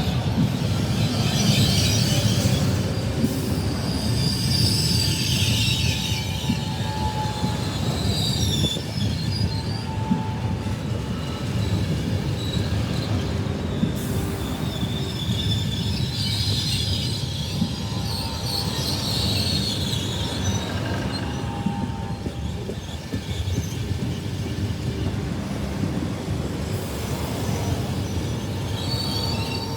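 A train rolling through the station with a steady low rumble of wheels on rail, and wheel squeal that comes and goes several times over it.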